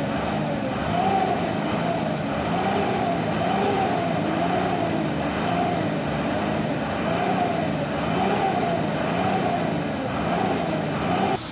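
A siren-like tone wailing up and down about once a second over the rumble of a truck engine and road noise; it cuts off abruptly near the end.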